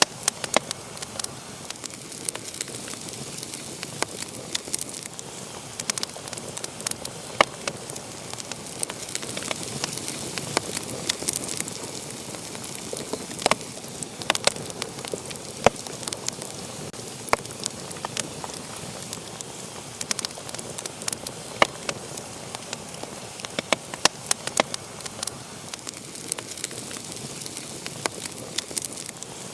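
Wood fire burning and crackling: a steady hiss with frequent sharp, irregular pops and snaps from the burning logs.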